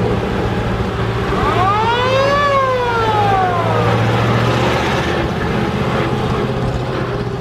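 Fire truck siren winding up and back down once, over the steady running of the truck's Ford flathead V8 engine.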